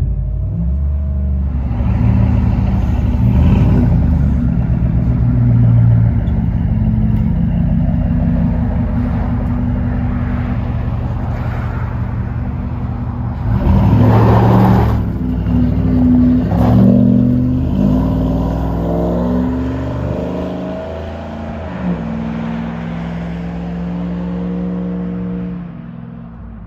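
Lincoln Mark LT's 5.4-litre Triton V8 through a dual exhaust with a Flowmaster Super 10 muffler, heard from inside the cab: a deep engine note that rises under throttle several times, most strongly about fourteen seconds in. It then settles to a steadier run and fades out near the end.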